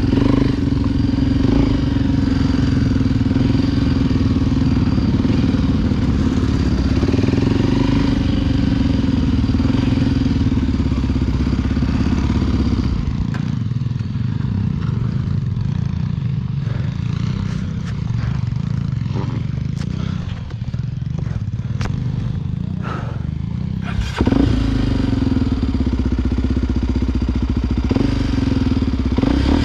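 Honda XR Tornado 293's single-cylinder four-stroke engine running at steady throttle on an off-road trail. About halfway through it eases off for roughly ten seconds, with scattered knocks and clatter from the bike over rough ground. After a sharp knock it pulls steadily again.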